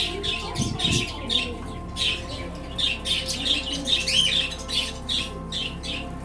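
Small birds chirping, a quick run of short, high calls several times a second, over a faint steady hum.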